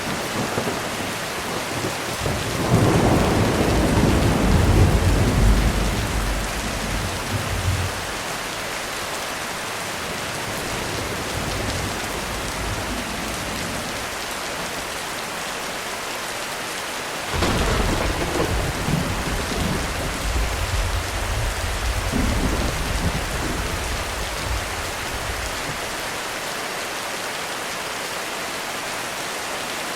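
Heavy rain falling steadily, with two rolls of thunder: one builds a few seconds in and rumbles for about five seconds, the other breaks in suddenly near the middle and rumbles for about eight seconds before fading.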